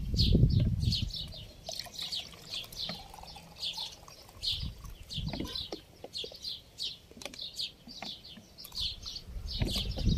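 A bird chirping over and over, two to three short chirps a second. Liquid pours and splashes from a big plastic bottle into a plastic cup, loudest in the first second.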